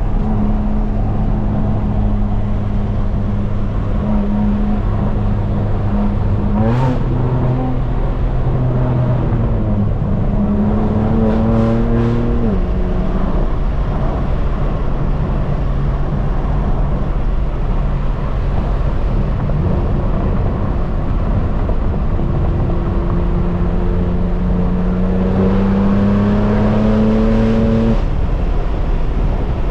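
Straight-piped BMW M4 Competition's twin-turbo straight-six exhaust being driven hard. The revs climb briefly about a quarter of the way in and again a few seconds later, then rise in one longer pull that cuts off sharply near the end. A steady rush of noise runs underneath.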